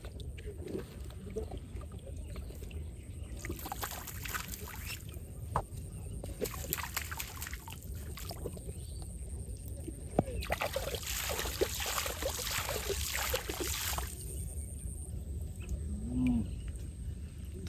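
Water splashing and sloshing in three spells of a few seconds each, with a sharp knock about ten seconds in, over a low steady rumble.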